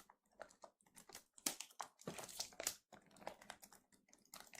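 Faint crinkling and rustling of packaging being handled and unwrapped, with irregular small crackles.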